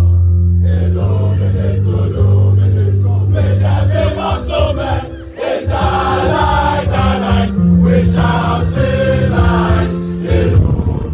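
Voices singing a school anthem over loud instrumental accompaniment, with held bass notes that shift every second or two.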